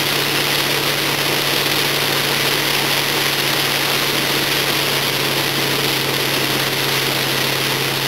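Car engine running at a steady, unchanging pitch under a constant hiss.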